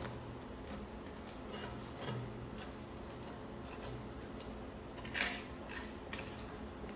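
Faint scraping and light knocking of a scraper working caked, dried food residue out of a cast iron skillet, with one louder scrape about five seconds in.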